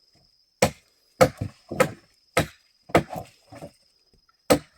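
A series of sharp wooden knocks, about nine blows at uneven spacing, some in quick pairs, like wood being struck or chopped by hand.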